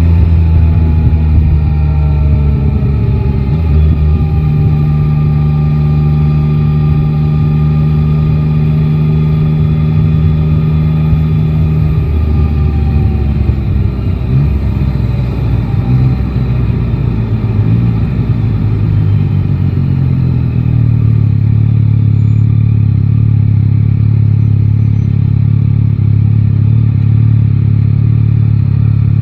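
Yamaha Tracer 9 GT's three-cylinder engine running under way: the note falls at first, holds steady for several seconds, then drops lower and wavers before settling into a steady lower note in the second half.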